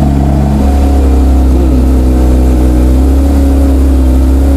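Porsche 911 GT3 Touring (992) 4.0-litre flat-six idling high just after a cold start. The pitch settles slightly about half a second in and rises and falls briefly about a second and a half in.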